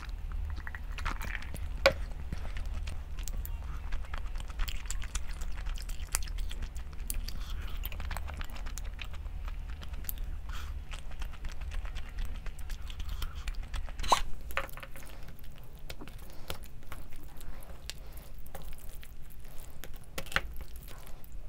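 Close-up chewing and crunching of food, with many small wet clicks; sharper clicks come about two seconds in and about two-thirds of the way through. A steady low hum runs underneath.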